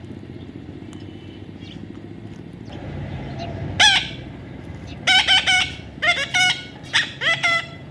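A bird calling: one loud call falling in pitch about four seconds in, then three quick groups of short pitched calls near the end, over a steady background hum.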